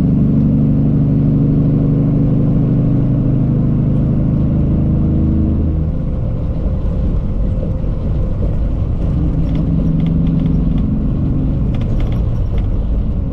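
Cummins ISX diesel engine of a Peterbilt 379 running steadily while the truck is driven. The engine note fades about six seconds in and returns at a slightly lower pitch a few seconds later, with a few light rattling clicks near the end.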